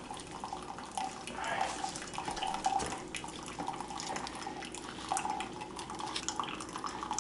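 Keurig K-Cup coffee maker running a fresh-water rinse brew to flush out descaling vinegar, hot water streaming steadily into a coffee cup. Scattered small clicks and rustles run through it.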